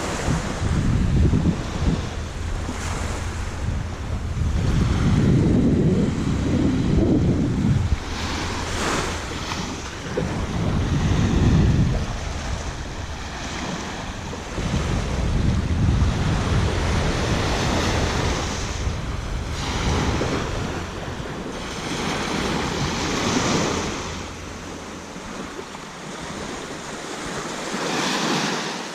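Sea waves washing onto a sandy beach in repeated surges, with wind buffeting the microphone in low rumbling gusts that ease off near the end.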